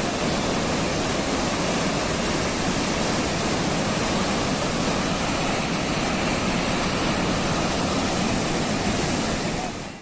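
Steady, loud rushing of a torrent of water and mud pouring downhill, cutting off suddenly at the very end.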